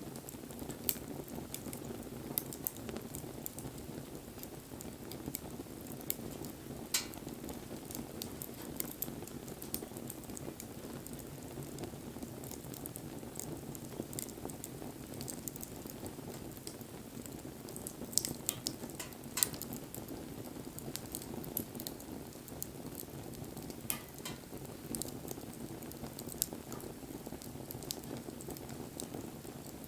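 Wood fire burning: a steady low rush of flames with scattered crackles throughout and a few sharper pops.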